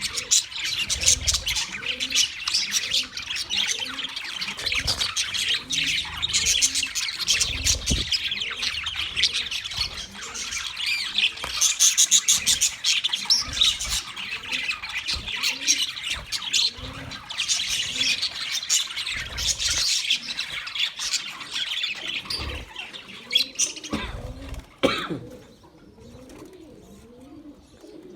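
A flock of budgerigars chattering, with dense overlapping chirps and squawks that thin out to a few scattered calls near the end.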